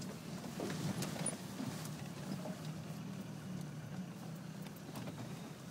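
A jeep's engine running steadily, heard from inside the cabin as it drives through a glacial river, with scattered knocks and rattles over the drone.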